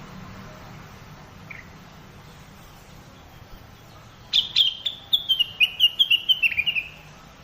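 Cak wilis (rengganis) bird call of the kind used as a lure: a fast run of about a dozen sharp chirping notes starting about four seconds in and stepping down in pitch over two and a half seconds. One faint chirp comes earlier, over a low steady hum.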